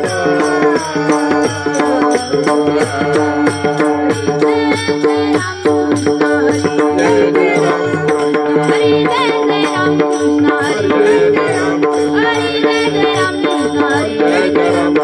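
Devotional kirtan singing: a voice holding and gliding through long ornamented notes over a steady drone, with percussion keeping a regular beat.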